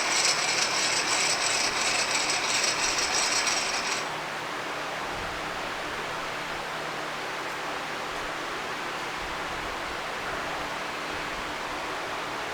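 A tool's mechanism clicking very rapidly, like a ratchet, for about four seconds, then stopping suddenly. A steady hiss remains after it.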